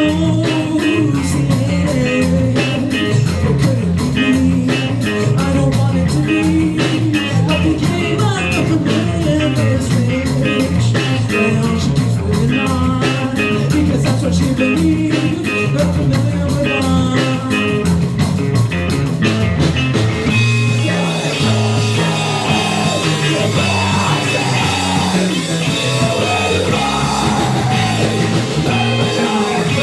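A live rock band plays a song with electric guitar, bass and drums, with some singing. About two-thirds of the way through, the sharp drum hits give way to a steady cymbal wash under the guitars.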